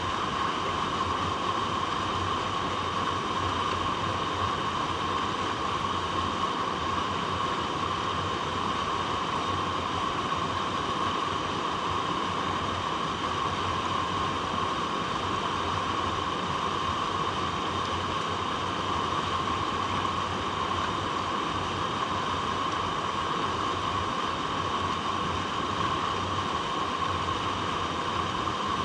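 Flowing water rushing steadily over rocks, an even, unbroken hiss.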